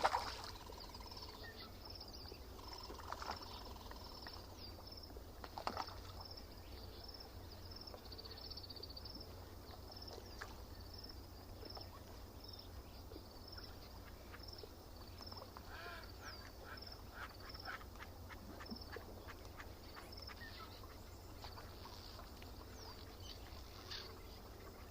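Birds calling by a lake: one short high note repeats steadily throughout, with a few louder, lower calls in the first several seconds and a quick run of calls in the middle.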